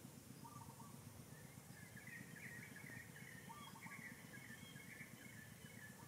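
Faint bird calls: a couple of short chirps, then a run of quick high chirping notes through the middle, over a low steady background rumble.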